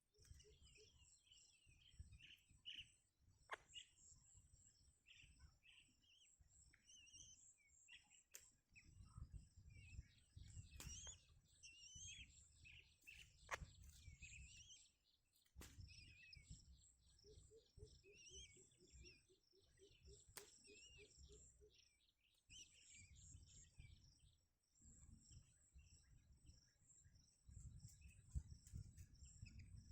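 Faint, high bird chirps and short trills repeating throughout, over an intermittent low rumble.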